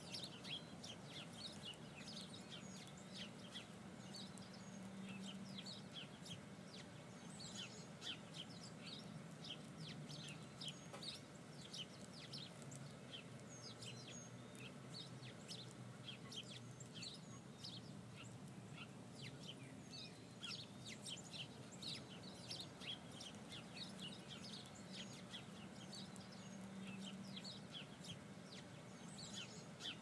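Faint bird chirping: many short, high chirps scattered irregularly throughout, over a low steady hum.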